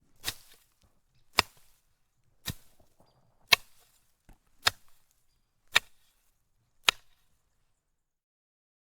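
Seven sharp strikes at an even pace, about one a second.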